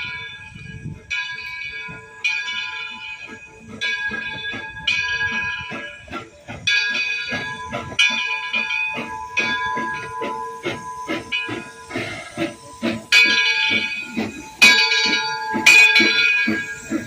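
Steam locomotive arriving: its bell rings steadily about once a second over hissing steam and a fast rhythmic clatter, which grows louder toward the end.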